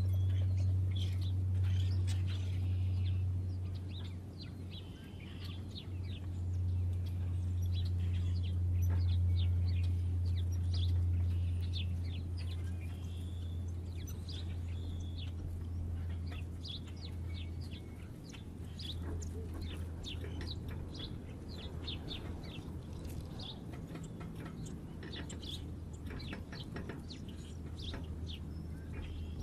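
Small birds chirping: many short, high chirps in quick succession throughout, over a steady low hum.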